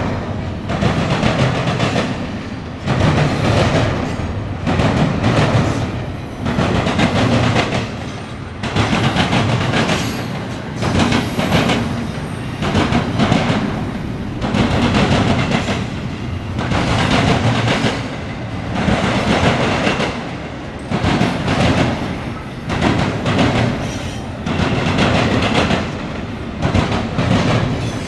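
Norfolk Southern intermodal freight cars rolling past, wheels clicking over the rail joints in a clickety-clack. The noise swells and fades about every two seconds as each car goes by.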